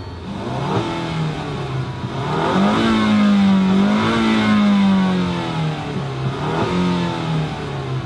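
2015 Land Rover Discovery Sport's 2.0-litre turbocharged four-cylinder engine revved in Park, heard from inside the cabin. The pitch climbs about two and a half seconds in, holds high for a couple of seconds, then drops back with a smaller rise near the end.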